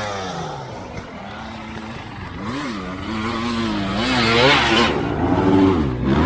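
Enduro dirt bike engine revving up and down as the rider works the throttle, getting louder toward the end.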